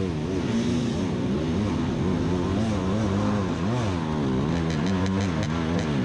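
Beta 300 RR two-stroke dirt bike engine running, its revs rising and falling every half second or so as the throttle is worked over rough trail. A few faint clicks come about five seconds in.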